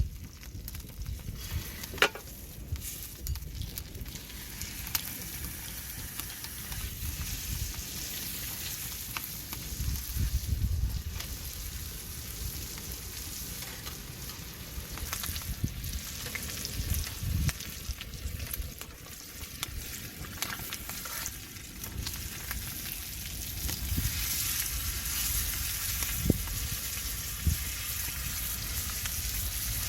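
Food sizzling in a frying pan, a steady hiss broken by a few sharp clicks, growing louder near the end.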